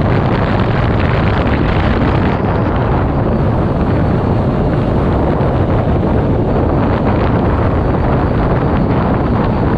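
A car running with heavy wind buffeting on the microphone: a loud, steady rush with no clear engine note standing out.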